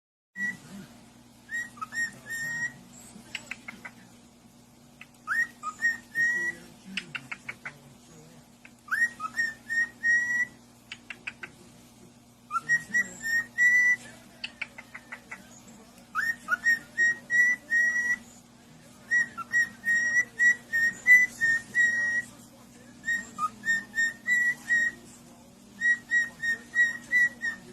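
A pet parrot whistling phrases of short notes that each slide up and then hold, with runs of rapid clicks between some phrases, over a faint steady hum.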